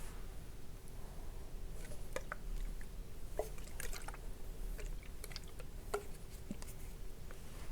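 Facial toner being handled close to the microphone: scattered soft clicks and small wet, squishy drips of the liquid.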